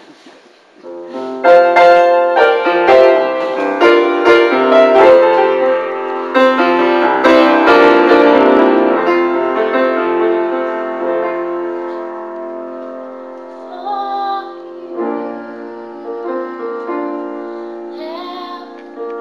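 Solo piano playing the slow introduction to a ballad. Chords start about a second in, are loudest over the first several seconds, then carry on more softly.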